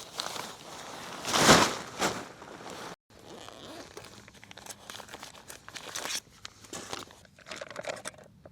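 Close crinkling and rustling handling noise, with a loud scrunch about one and a half seconds in. The sound breaks off abruptly near three seconds, then returns as lighter, scattered crackles.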